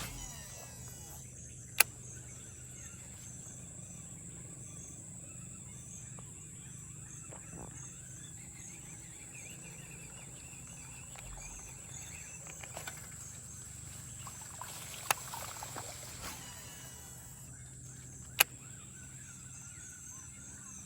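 Steady high-pitched drone of insects, with three sharp clicks and a stretch of rustling about two thirds of the way through.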